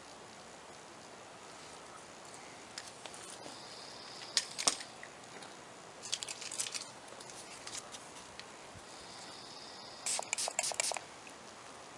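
Dent-pulling tools clicking and rattling against a car body panel during glue-tab pulls, in three short clusters of rapid clicks.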